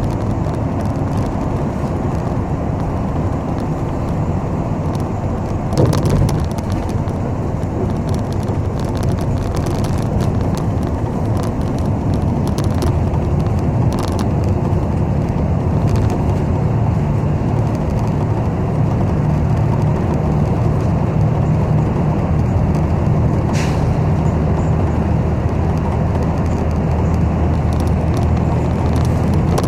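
Steady engine drone and road rumble inside the cabin of a moving city bus, with a brief knock about six seconds in and the engine tone growing a little stronger in the second half.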